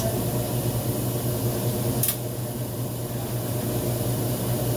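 Homemade electric blower for a used-engine-oil stove, running steadily with a low hum and a rush of air. One short click about two seconds in.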